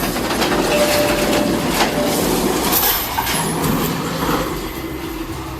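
Heavy tracked machinery moving, a steady mechanical rumble with metal clanking and clattering, and a thin squeal for about a second and a half near the start.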